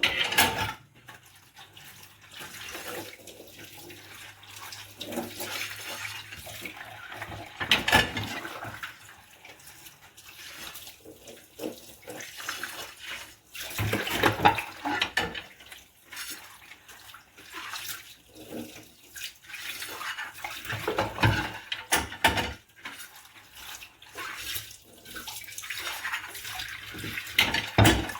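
Dishes being washed by hand at a kitchen sink: tap water running and splashing, with louder surges of splashing and clattering of dishes every several seconds.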